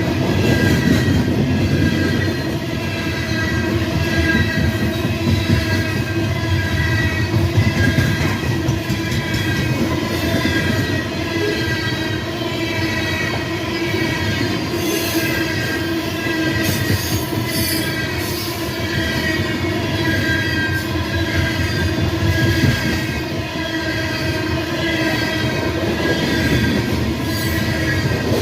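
A train rolling past close by, its steel wheels squealing steadily on the curve over a continuous rumble and clatter of wheels on rail.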